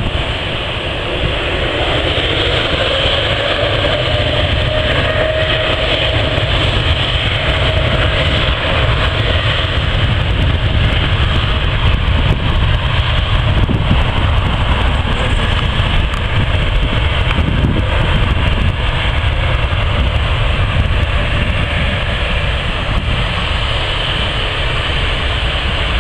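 Jet airliner engines running: a loud, steady roar, with a faint whine rising in pitch in the first few seconds.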